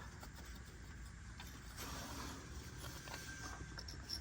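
Faint clicks and scraping of a crankshaft position sensor being twisted and pulled out of its bore by hand.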